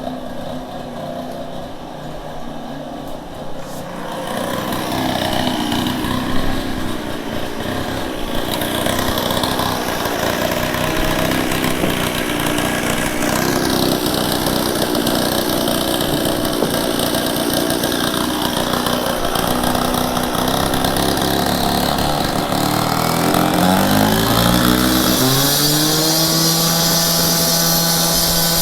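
A loud power tool motor running with a dense, steady noise. About three-quarters of the way through, a motor winds up in pitch and then holds a steady hum.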